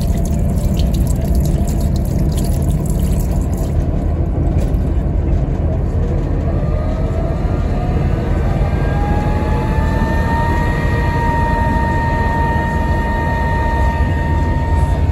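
Train running, with a steady low rumble through the carriage toilet. For the first few seconds a sensor tap runs water over the hands with a splashy hiss. Then a whine rises in pitch over about four seconds and holds steady.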